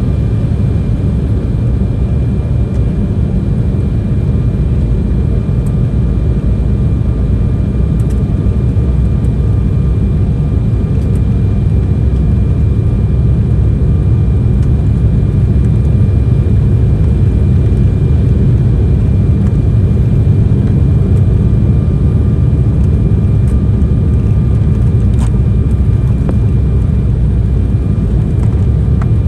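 Steady cabin rumble of an Embraer E190 airliner with its engines running, heard from a passenger seat, with a faint steady whine above the rumble. The level rises slightly toward the end.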